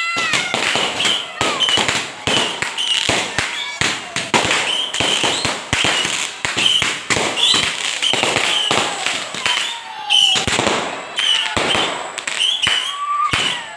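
Fireworks and firecrackers going off in quick succession: a dense run of sharp bangs and cracks, several a second.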